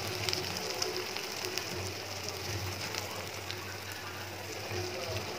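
Chopped onions and masala paste frying in hot oil in an iron kadai: a steady sizzling hiss with small crackles and pops.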